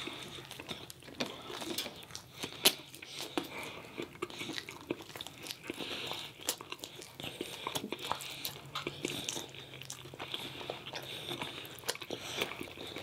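Close-miked eating sounds: biting and chewing pizza and barbecue chicken wings, with many short crunches and clicks, the loudest about two and a half seconds in.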